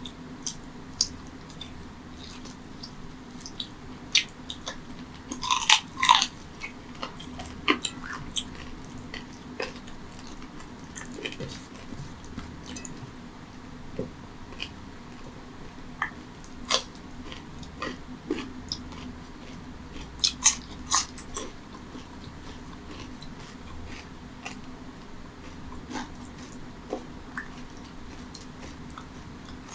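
Close-miked eating by hand: wet chewing and biting of mouthfuls of rice and mutton curry, full of small smacks and clicks. There are louder crunchy bites around six seconds in and again around twenty seconds, over a faint steady hum.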